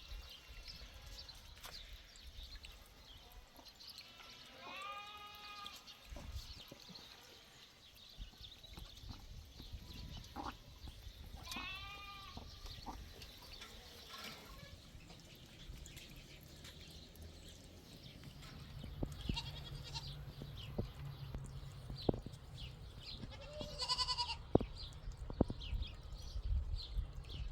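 Goats bleating now and then, a few separate calls spread out, over a low background rumble that grows louder near the end.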